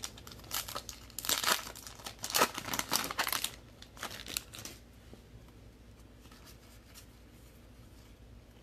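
Plastic wrapper of a trading card pack being torn open and crinkled, a dense run of crackles for the first few seconds that then stops.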